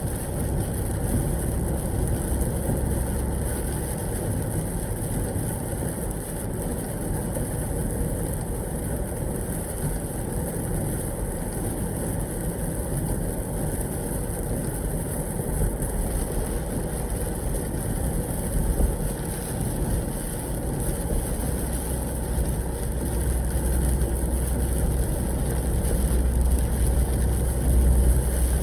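Truck engine and road noise heard from inside the cab while driving: a steady low rumble with hiss, swelling in the lows over the last few seconds.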